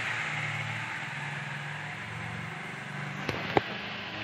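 Crumbled chapati frying in a spoonful of ghee in a nonstick pan, sizzling and crackling steadily as it is stirred with a spatula. Two sharp clicks of the spatula against the pan come near the end.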